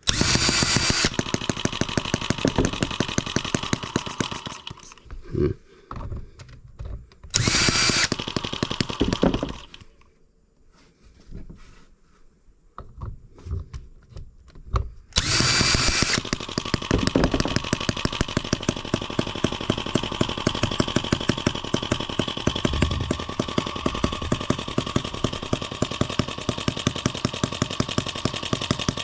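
Small M25 sideshaft model engine running roughly on its first start, firing in bursts with quiet gaps between. About halfway through it picks up and fires steadily with rapid, even strokes.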